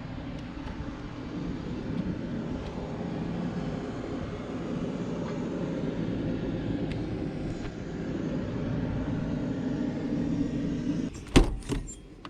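A steady low engine rumble, then a few sharp knocks near the end, the first of them the loudest.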